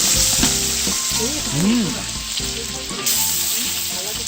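Meat sizzling and frying on a wood-fired stone grilling slab: a steady hiss of cooking fat.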